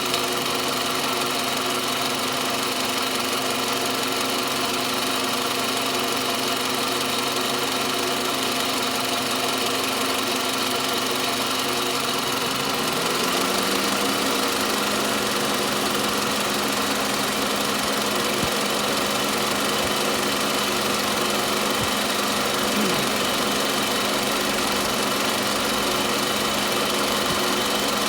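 Toyota Camry 40's 2.4-litre four-cylinder engine running with a ringing knock in the alternator area that is always there. About halfway through the engine note rises slightly and then holds steady.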